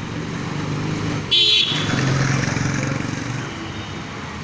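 Road traffic with motor vehicles running, and a short, loud, high-pitched horn toot about a second and a half in, followed by a vehicle passing.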